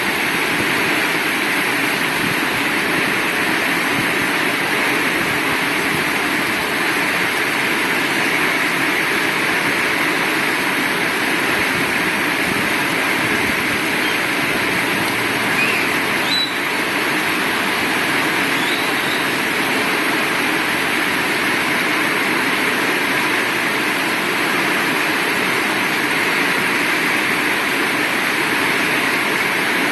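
Heavy rain falling steadily in a dense, even hiss, with a brief knock about halfway through.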